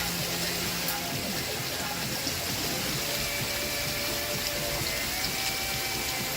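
Steady rain, an even hiss. Faint held notes of background music come in underneath from about halfway through.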